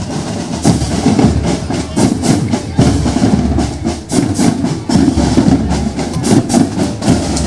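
Parade marching drums playing a continuous rhythm on snare and bass drums.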